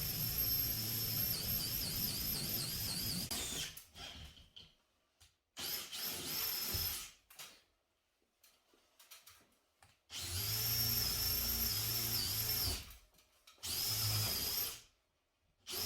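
A power drill running in about five bursts, the longest about four seconds and the last brief, its high whine wavering and dipping as it works under load.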